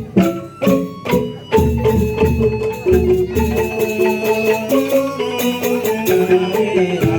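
Percussion ensemble music led by mallet-struck tuned keys, playing a fast run of struck notes.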